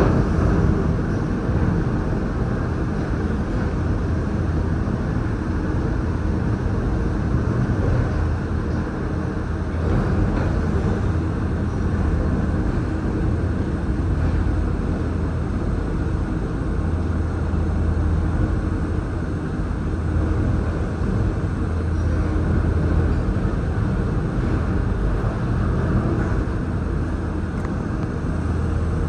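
Disney Skyliner gondola cabin riding its cable: a steady low rumble and rush of travel noise, with a deep hum that swells and fades.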